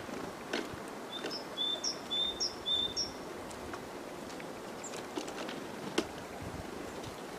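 A small bird calling: a quick run of about four high two-note chirps in the first few seconds, over steady outdoor background noise. A few faint clicks follow, with one sharper click about six seconds in.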